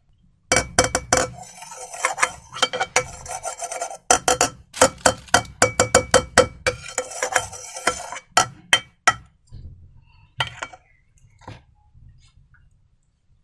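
Close handling noises from making slime with balloons: a dense run of sharp crackles and clicks over a scraping, rubbing sound, thinning out to a few scattered clicks near the end.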